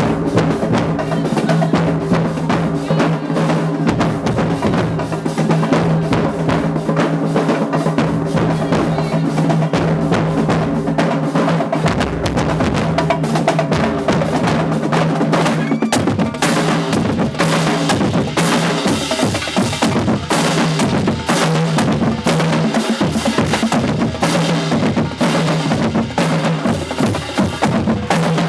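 Marching band drumline playing a fast, continuous cadence of snare and bass drums, with rapid rolls, over a steady low held tone.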